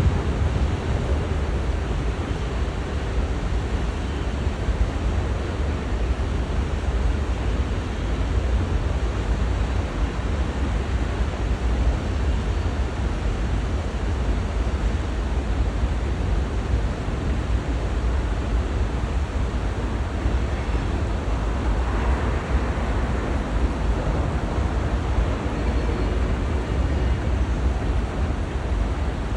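A train rolling past: a steady low rumble and roar of the wheels on the rails, with no breaks or changes.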